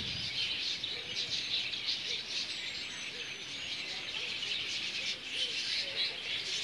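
Many small birds chirping at once, a steady dense twittering. A few thin high whistles come through near the middle.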